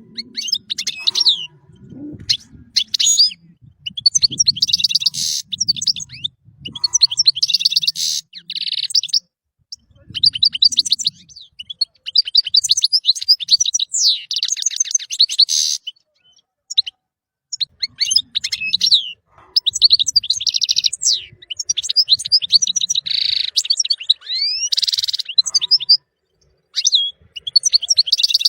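European goldfinch singing: bursts of rapid, tinkling twitters and trills, each a second or two long, separated by short pauses. A faint low rumble sits underneath at times.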